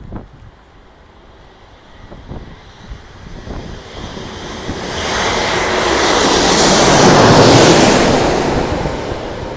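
Boeing 787-9 jet airliner on landing approach passing close by, its engine noise swelling to a peak about seven seconds in and then fading. Wind buffets the microphone throughout.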